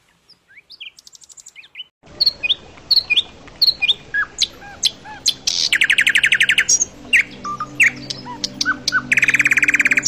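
Songbirds chirping and singing: many short sliding notes, with two long rapid trills, one around the middle and one near the end. A faint steady low hum sits underneath from about two seconds in.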